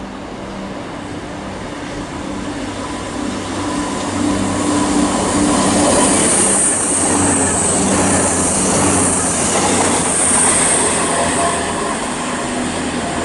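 Express passenger train running through the station on the West Coast Main Line. Its rumble builds over the first few seconds and then holds loud, with steady low tones from the traction equipment and a high-pitched hiss from the wheels on the rails.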